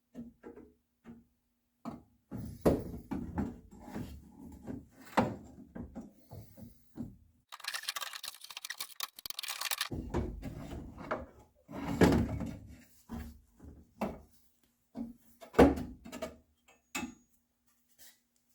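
Metal quarter-window regulator assembly being worked down into a car's rear quarter panel from the top: repeated clunks and knocks of metal on the body, with a few seconds of scraping about halfway through and heavier thuds after it.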